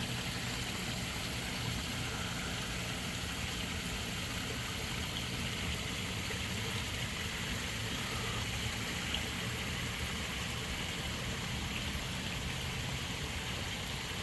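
Steady running water of a garden koi pond, a continuous trickling stream or waterfall.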